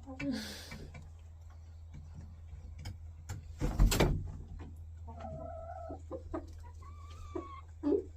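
Cochin hens clucking, with two drawn-out, held calls in the second half. A loud burst of noise about four seconds in, and a steady low hum underneath.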